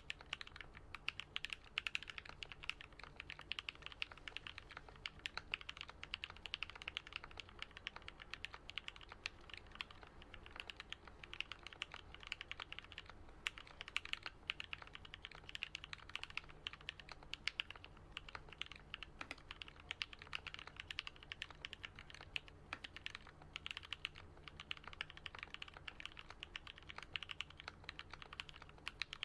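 Continuous fast typing on a custom Alice-layout mechanical keyboard (Switch Couture Alice) with lubed and filmed Gat Yellow linear switches and lubed Durock stabilisers: a dense stream of deep, muted keystrokes with brief pauses.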